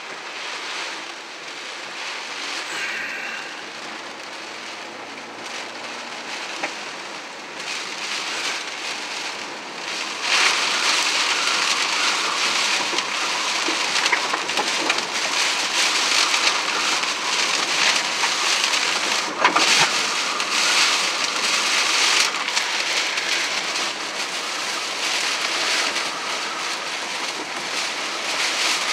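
Heavy rain pelting a car's windshield and roof, heard from inside the car, growing clearly louder about ten seconds in.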